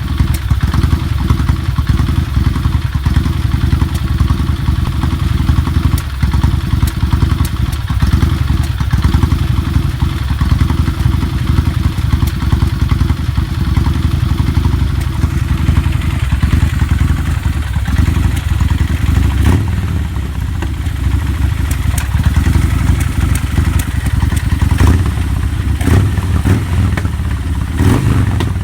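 Motorcycle engine running very rough and misfiring, its beat uneven with irregular stumbles and knocks. The owner suspects something has suddenly changed the ignition timing or fuel mixture.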